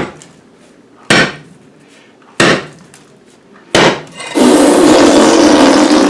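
Heavy hand tool striking an old concrete floor, three hard blows about 1.3 seconds apart. About four seconds in they are followed by a loud, sustained, noisy sound that lasts nearly two seconds.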